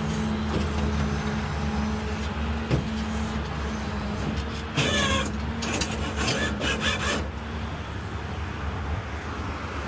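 Tow truck running with a steady low hum while a disabled car is slid down its dry steel rollback bed. Squeals and scraping sounds come from the car dragging on the unoiled bed, loudest about halfway through.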